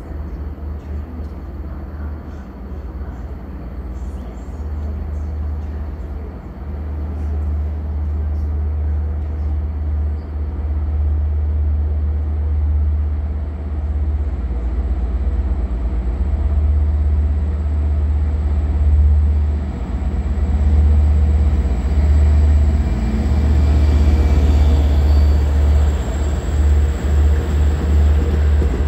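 LIRR DE30AC diesel-electric locomotive hauling a train of bilevel coaches, approaching and coming alongside the platform, growing steadily louder as it nears. Wheel and rail noise rises over the last several seconds as the coaches draw level.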